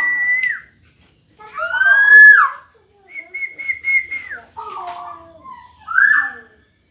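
Black-naped oriole singing a loud string of fluty whistles: a held note ending in a drop, a rising-and-falling whistle, a quavering held note, then two shorter falling notes, with short pauses between phrases. A faint steady high-pitched whine runs underneath.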